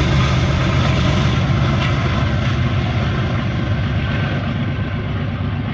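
Diesel locomotives of a freight train running with a steady low rumble, slowly fading and losing its high end as the train moves away.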